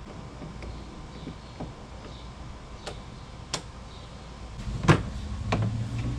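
A few sharp clicks and knocks, spread out, the loudest about five seconds in, with a steady low hum starting just before it.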